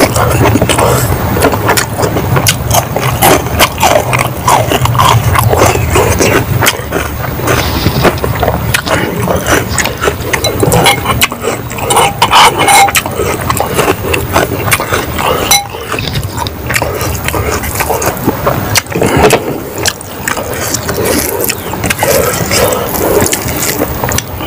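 Close-miked chewing and lip-smacking as a man eats rice by hand, in a dense run of short irregular wet clicks and smacks. About halfway through, his fingers mix and squish the rice on the plate.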